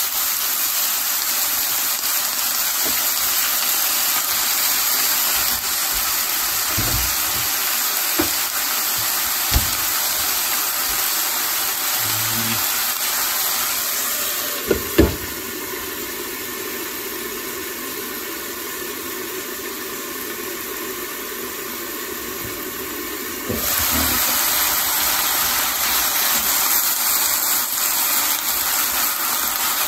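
Cabbage stir-fry sizzling steadily in a hot pan as sauce goes in. About halfway in, a glass lid is set on with a couple of clinks and the sizzle turns muffled and quieter. About eight seconds later it comes back full when the lid is lifted off.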